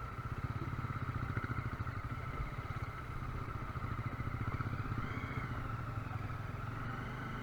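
Bajaj Dominar 400's single-cylinder engine running steadily as the motorcycle rides over a dirt and stone track, its note swelling slightly twice.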